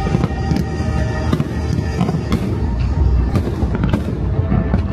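Aerial fireworks bursting in a rapid string of sharp bangs and crackles, about two a second, over steady music.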